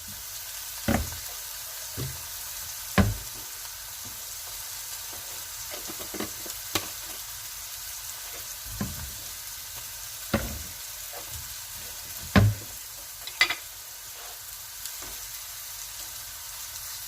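Seared chuck roast sizzling steadily in a hot pan with onions, peppers and seasonings, broken by several sharp knocks and clinks of utensils against the pan.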